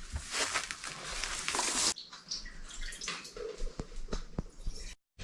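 Milk streaming and splashing into a pail, a steady hiss that stops abruptly about two seconds in. Then a quieter stretch follows with a few light knocks.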